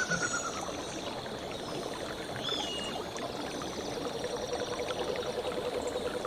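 Water running steadily, like a stream, with birds chirping over it; a short trill comes right at the start and another chirp a couple of seconds in. About four seconds in, a steady low pulsing tone joins.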